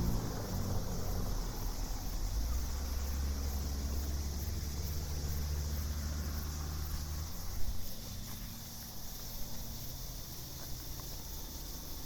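Night ambience: a steady high chorus like insects, under a low droning hum that fades after about seven seconds.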